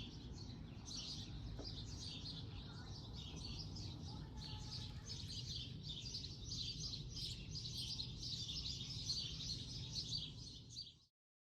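Many small birds chirping at once, a continuous busy chorus over a low background rumble, cutting off abruptly near the end.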